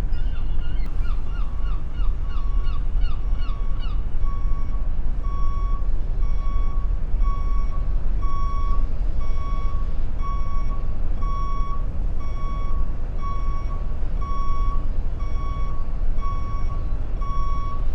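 A heavy vehicle's reversing alarm over a deep, steady rumble. For the first few seconds it is a fast rising chirp, about three a second. After that it is a plain, even beep about twice a second.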